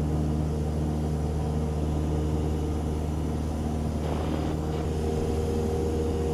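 Cessna 172 Skyhawk's piston engine and propeller in steady cruise: an unbroken, even drone.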